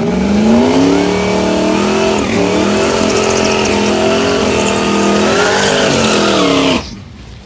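A race truck's engine at full throttle on a drag-strip pass, its pitch climbing and dipping several times as it runs up through the gears. The sound cuts off abruptly near the end.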